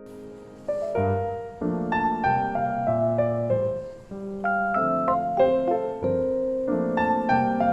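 Background piano music: a soft lead-in, then a new phrase of notes starting about a second in.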